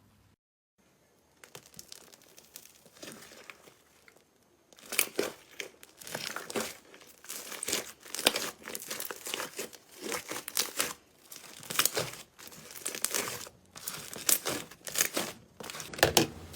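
Slime being squeezed and stretched by hand, giving a run of crackling, popping squishes about once a second. They are faint at first and grow louder about a third of the way in.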